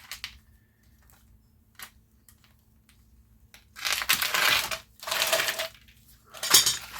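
A few light clicks, then two loud stretches of rattling and crunching from tools and small metal engine parts being handled and rummaged through, about four seconds in and again near the end.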